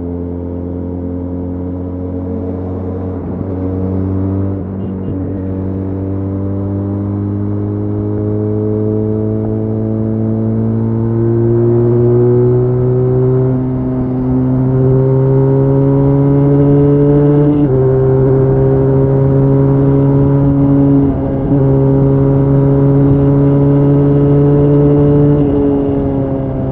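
Benelli Leoncino 500's parallel-twin engine pulling hard at high speed, its note climbing slowly and steadily. It has a small step and a brief dip around 18 and 21 seconds, and its pitch drops near the end as the throttle comes off.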